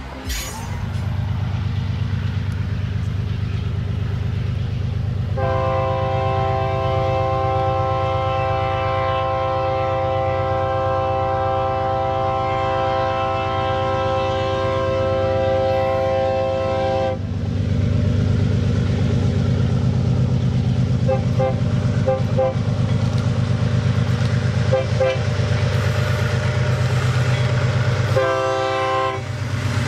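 Diesel freight locomotives approaching with a steady low engine rumble that grows louder. The locomotive horn sounds one long blast from about five seconds in lasting some eleven seconds, a few faint short toots later, and a short blast near the end.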